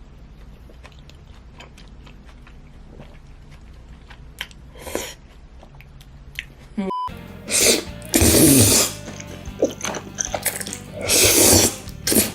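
Close-miked mukbang eating of spaghetti: soft chewing and small wet mouth clicks. After a cut, two loud, long slurps of noodles, over faint background music.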